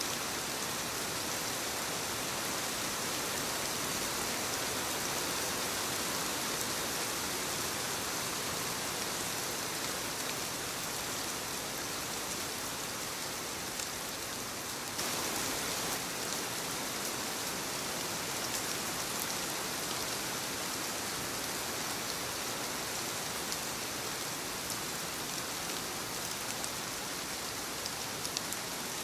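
Soft rain falling steadily on leaves, an even patter with scattered individual drops; the level steps up slightly about halfway through.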